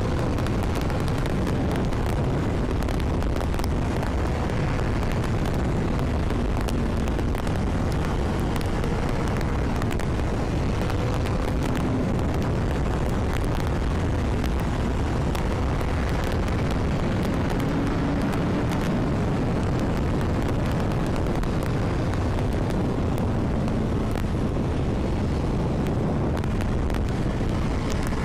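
Steady rush of wind over the microphone on a moving Honda CBR1000RR sportbike, with the bike's inline-four engine faintly audible beneath it, its pitch slowly rising and falling.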